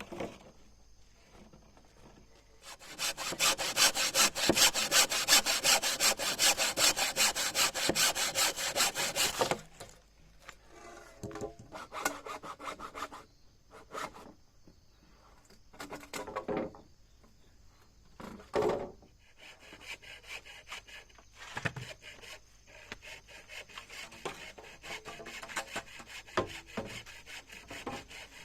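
Hand saw cutting through wood in rapid, even strokes for several seconds, then scattered knocks and a quieter stretch of sawing strokes near the end.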